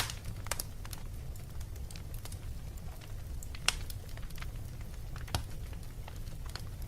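Wood fire crackling in a fireplace: irregular sharp pops and snaps over a steady low rumble, the loudest pop a little past halfway through.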